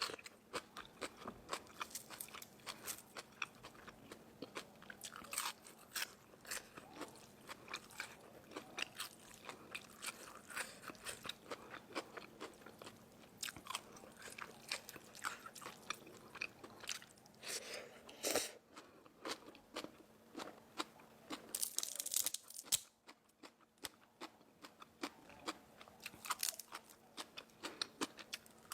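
Close-miked crunching and chewing of crispy food: a dense, irregular run of sharp crisp bites and crackles, with a brief hiss about three-quarters of the way through.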